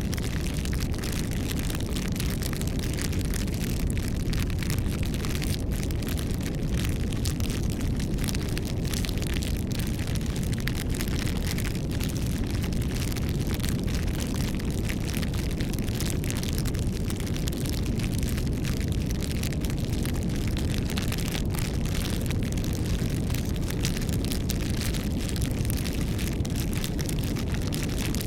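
Wood campfire burning: a steady low rumble of flames with frequent short crackles and snaps.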